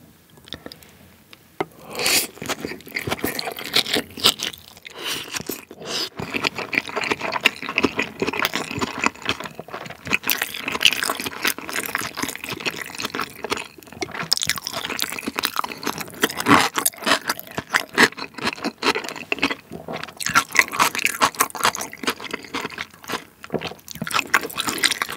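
Close-miked chewing of a giant raw salmon sushi topped with sliced raw onion and white sauce: dense, irregular wet mouth clicks and crackles that start about two seconds in and keep going.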